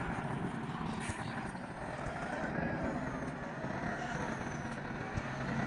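Steady roadside vehicle noise with faint voices of a crowd in the background.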